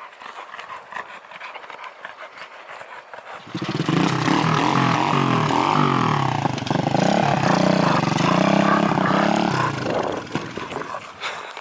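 Chinese minibike's small engine starting about three and a half seconds in and revving up and down for several seconds, then dropping away near the end.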